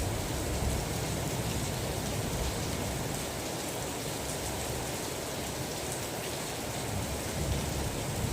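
Steady heavy rain hiss, with a low thunder rumble in the first couple of seconds and another building near the end.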